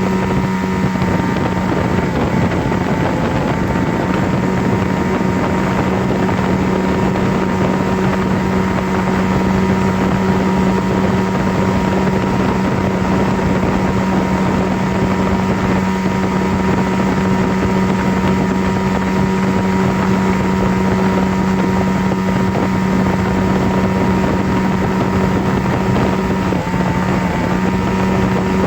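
Steady mechanical drone: an even rushing noise with a constant low hum and a few higher steady tones, unchanging throughout.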